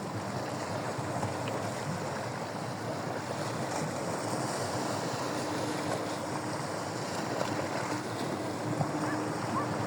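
Steady outdoor rushing of wind on the microphone and water waves, with a faint hum in the middle and a few small chirps near the end.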